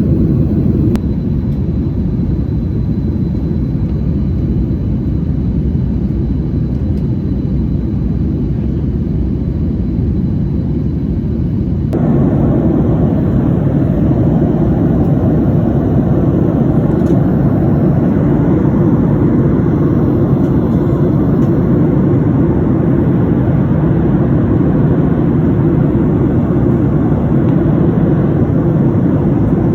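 Jet airliner cabin noise: a steady, loud low rumble of engines and airflow. About twelve seconds in it steps up suddenly to a louder, fuller rumble.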